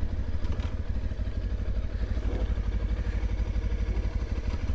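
Mutt Stravaig motorcycle's engine running at a steady speed, an even, pulsing low rumble.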